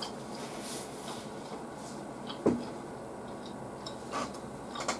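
Quiet eating at a table: faint soft chewing and mouth clicks over a steady low hiss, with one short voiced grunt about two and a half seconds in.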